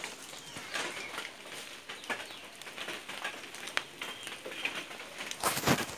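Birds calling with short, scattered chirps over a faint hiss, with one louder, sharper noise near the end.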